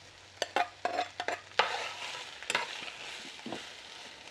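Diced tomatillos and sliced onion sizzling as they fry in a glazed clay cazuela, with a metal spoon stirring and clacking against the pot. A quick run of sharp clacks comes in the first half and two louder knocks follow, then the sizzle settles.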